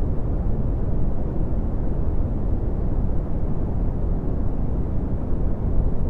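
Steady red (Brownian) noise: an even, deep rushing hiss with most of its energy in the bass, falling away toward the treble, with no changes or events.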